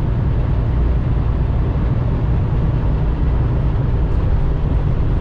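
Steady low rumble inside a moving semi-truck's cab: the engine's drone with road noise at speed.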